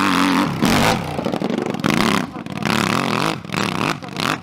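Dirt bike engine revving hard in repeated bursts, its pitch climbing and falling several times, with short drops in between as the throttle is rolled off.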